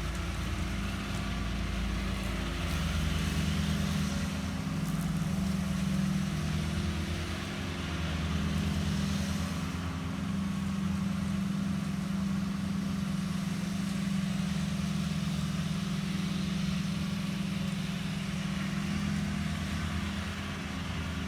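Walker ride-on mower's Kubota engine running steadily, a constant low hum with an even mechanical hiss over it.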